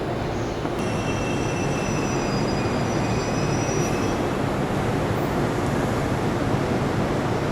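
Train running on the rails with a steady rumble, with a faint high-pitched wheel squeal from about one second in that fades out after about four seconds.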